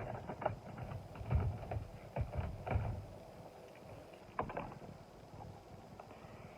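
Small knocks and clicks of die-cast toy cars being handled, turned over and set down, at irregular intervals, with several close together in the first three seconds and another about four and a half seconds in.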